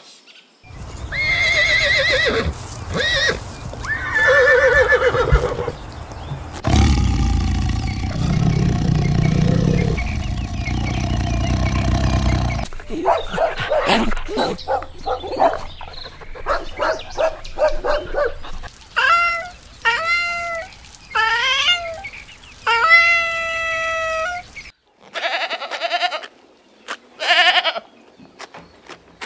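A string of different animal calls cut one after another: high pitched calls early on, a lower, rougher stretch in the middle, then repeated short falling calls, with goats bleating near the end.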